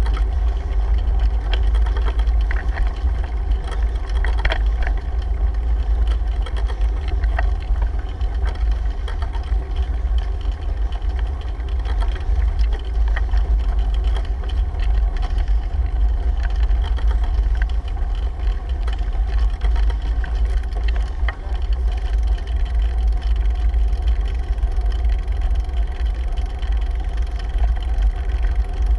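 Steady, loud wind rumble buffeting a GoPro's microphone while riding a bicycle, with continuous riding noise underneath and occasional faint ticks.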